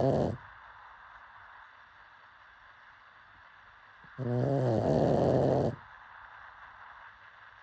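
A sleeping pug snoring. The end of one snore comes right at the start, then one long, low-pitched snore of about a second and a half comes a little past halfway.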